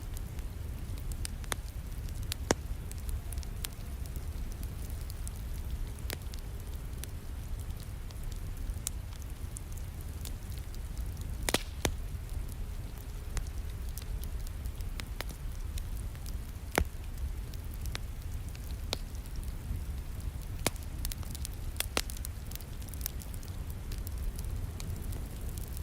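Wood fire crackling in a fireplace, with irregular sharp pops over a low steady rumble and rain falling in the background.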